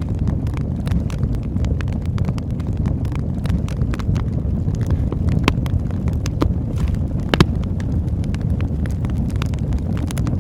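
Campfire burning: a steady low rumble under frequent, irregular sharp crackles and pops, the loudest pop a little after seven seconds in.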